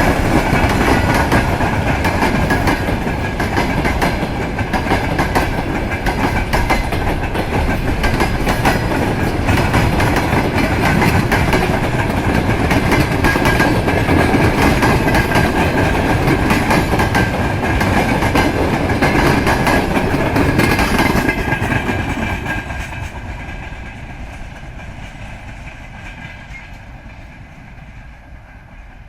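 Freight train wagons rolling past, wheels clattering over the rail joints, with a faint steady squeal. About 22 seconds in the last cars go by and the sound fades away.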